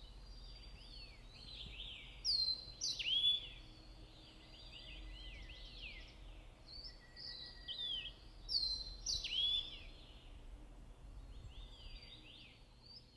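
Steere's liocichla singing: clear whistled phrases, the same loud phrase given twice about six seconds apart, with softer notes in between.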